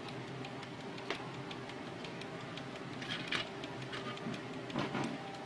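Canon G2000 inkjet printer running its mechanism: a steady motor hum with small regular ticks and a few louder clicks.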